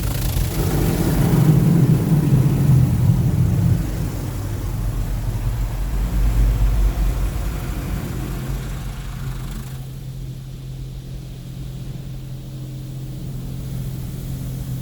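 Touchless automatic car wash spraying water over the vehicle, heard from inside the car, over a steady low hum. The spray is loudest in the first few seconds and stops about ten seconds in, leaving only the hum.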